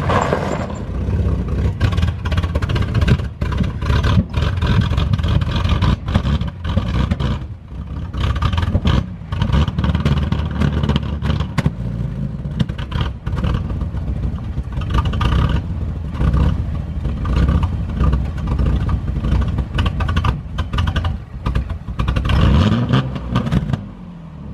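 Chevy pickup's engine fitted with an aftermarket cam, running and being revved, with clattering throughout and a rise and fall in revs near the end.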